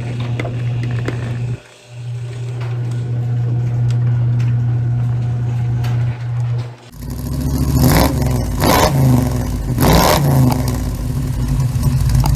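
A car engine running steadily, then revved hard in several quick throttle blips during the second half.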